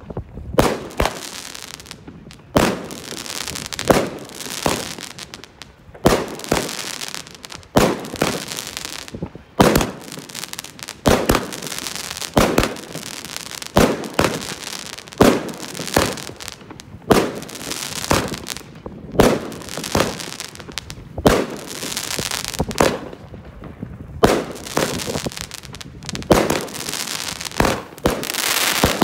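A 19-shot consumer fireworks cake firing shot after shot: sharp bangs of launches and bursts roughly every second or so, each trailed by a brief hiss.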